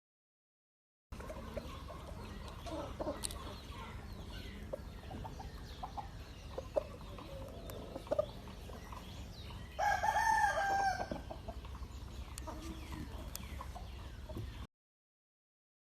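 A gamefowl rooster crowing once, about ten seconds in, loudest in the stretch, over scattered softer clucking and a steady low rumble. The sound drops out completely for about the first second and again near the end.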